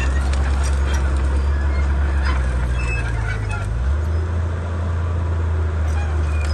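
Komatsu D31P crawler bulldozer's diesel engine running steadily, its note shifting slightly about four seconds in, with scattered knocks and clatter over it.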